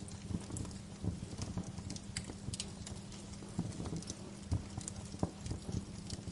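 Wood fire crackling in a fireplace: irregular sharp pops and snaps at uneven intervals over a low steady rumble.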